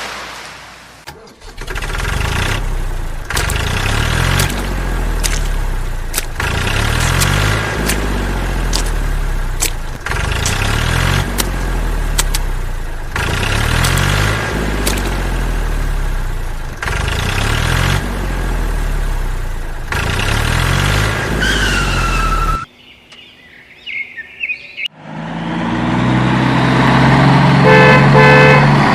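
Vehicle sound effect repeating about every two seconds, then it cuts off, and near the end a loud honking horn.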